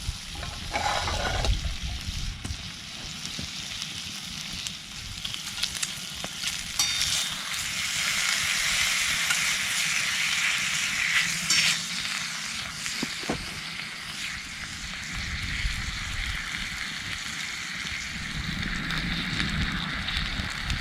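Food sizzling as it fries in a hot pan, the sizzle growing stronger about seven to eight seconds in, with a few light clicks.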